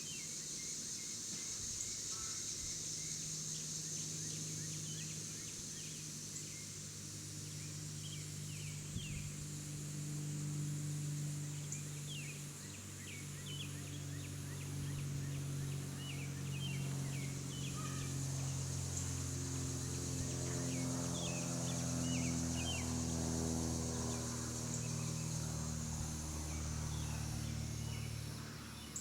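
Outdoor backyard ambience: small birds chirping in short, scattered calls over a steady high hiss. A low, droning hum, like a distant engine, grows louder in the second half.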